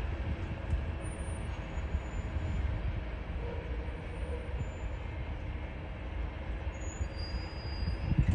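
Freight train of tank cars rolling away on the rails, a steady low rumble of wheels on track, with a brief thump near the end.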